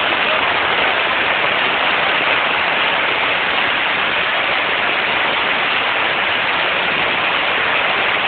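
Steady rush of storm runoff: muddy rainwater pouring down a street like a waterfall.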